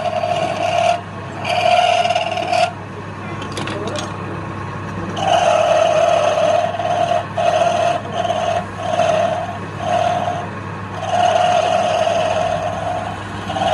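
Wood lathe running with a steady motor hum while a turning tool cuts the spinning wood in repeated short passes, each cut giving a loud, high, steady-pitched ringing tone.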